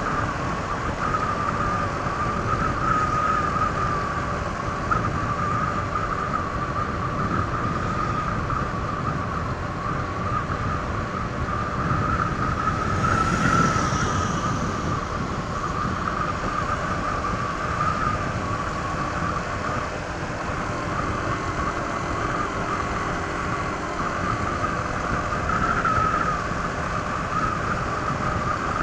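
Honda ADV 160 scooter running at riding speed on its stock exhaust, a steady engine drone mixed with road and wind noise. The sound swells briefly about halfway through.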